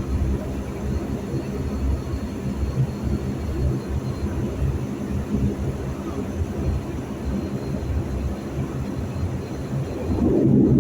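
De Havilland Dash 8-400 twin turboprop engines and propellers running on the ground before takeoff, heard from inside the cabin as a steady low drone. The drone swells louder near the end.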